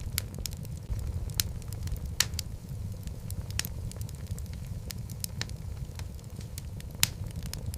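Wood fire burning in a fireplace: a steady low rumble of flame with irregular sharp crackles and pops from the logs, a few of them louder.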